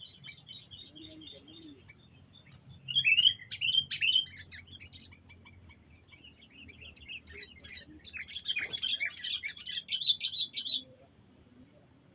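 Songbirds chirping and chattering in rapid bursts of high notes: a loud burst about three seconds in, then a longer, dense run of chatter from about eight seconds that stops suddenly near the end.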